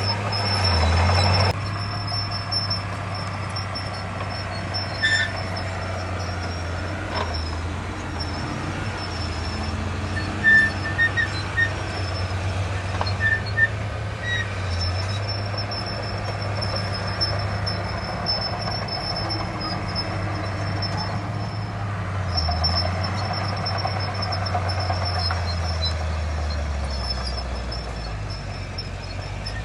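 Diesel engines of heavy earthmoving machinery running with a steady low drone. A short hiss comes about a second in, and a few brief high chirps sound over the engines.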